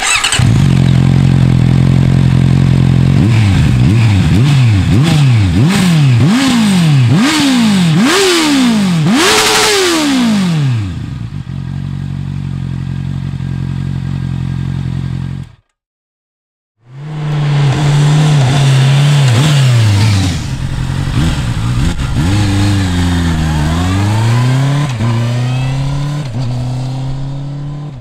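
2019 Honda CB650R's inline-four engine idling, then revved in a quick run of about seven throttle blips, each climbing higher than the last, before dropping back to idle. After a short break it idles again and is revved a couple more times, then settles back to idle.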